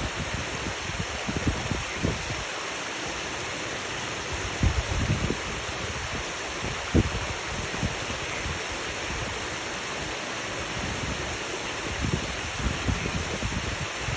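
Waterfall running with a steady rush of falling water, with occasional low thumps, the loudest about five and seven seconds in.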